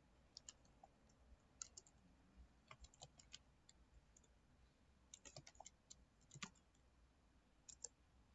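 Faint computer keyboard typing: short irregular runs of key clicks with pauses between them, over quiet room tone.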